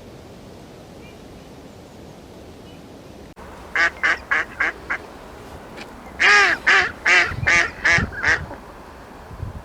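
Waterfowl calling: a quick run of about five short, nasal calls, then after a brief pause a run of about six louder, longer calls. Before the calls there are a few seconds of faint background.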